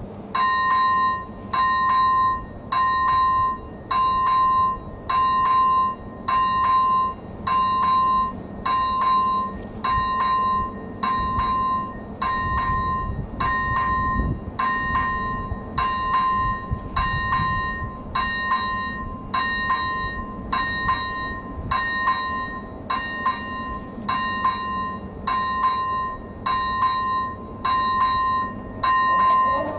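Czech level-crossing AŽD ZV01 electronic warning bell starting up about a second in and then ringing steadily, one short ding about every second. It signals that the crossing has activated for an approaching train. A low rumble rises and fades under it around the middle.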